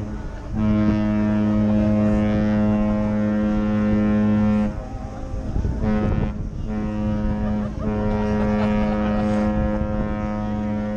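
Deep ship's horn sounding in long blasts: one of about four seconds, then after a short gap a brief blast and two more that run on together for several seconds. It is a departure salute exchanged between cruise ships leaving port.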